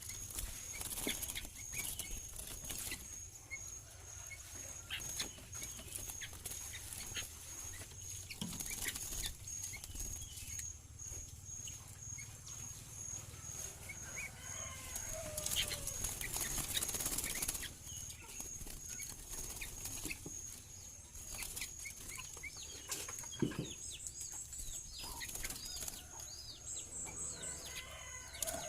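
Sooty-headed bulbul giving short, scattered chirping calls, mixed with wing flutters and light knocks.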